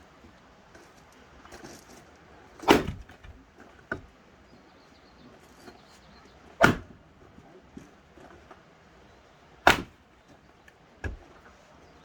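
Axe splitting firewood: three sharp blows about three to four seconds apart, with a couple of lighter knocks between them.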